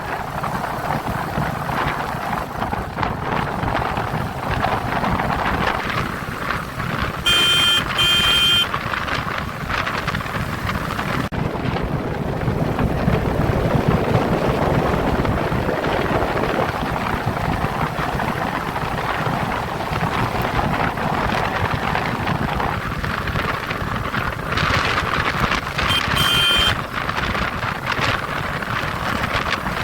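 Royal Enfield motorcycle on the move, its engine and the rush of wind and road filling the sound steadily. A horn gives two short beeps about seven seconds in and another short beep near the end.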